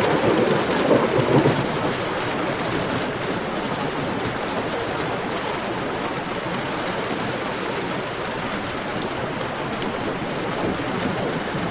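Heavy rain falling steadily. A low rumble of thunder fades out in the first second or two.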